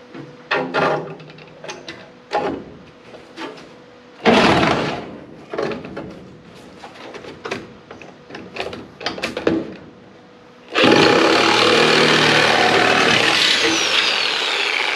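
Scattered knocks and scrapes of metal being worked. About eleven seconds in, a power cutting tool starts and runs steadily, cutting into the car body's sheet metal.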